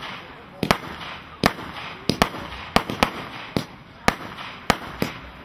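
Fireworks International Vipers Nest firework cake firing a rapid series of shots, about two a second at an uneven pace, with a hissing crackle from the gold brocade and glitter effects between the bangs.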